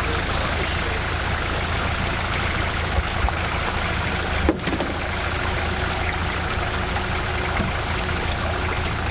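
Off-road vehicle engine running steadily under a broad rush of noise, with a few short knocks about three seconds in and again halfway through.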